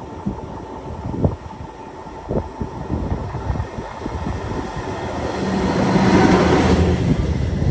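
A train passing on the line. Its noise builds from about five seconds in to a loud rush with a steady low hum. Wind buffets the microphone throughout.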